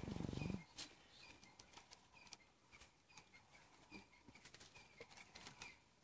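Quiet bush ambience with faint short bird chirps repeated at one pitch, among scattered small clicks. It opens with a brief low, pulsing rumble that stops about half a second in.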